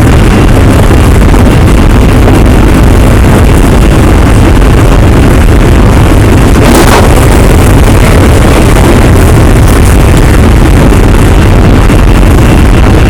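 Running sound inside a JR Hokkaido 733 series EMU motor car with Hitachi IGBT-VVVF control and N-MT731 traction motors: a steady, loud rumble of wheels and motors under way, with a faint steady high tone. A brief harsh noise comes about seven seconds in.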